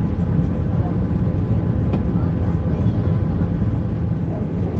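Steady low rumbling hum inside the passenger cabin of an Airbus A320 in flight: engine and airflow noise, with a few faint steady tones above the rumble.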